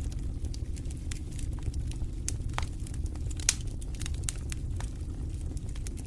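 Wood fire in a fireplace crackling, with frequent sharp pops and snaps over a steady low rumble of the flames; one louder pop about three and a half seconds in.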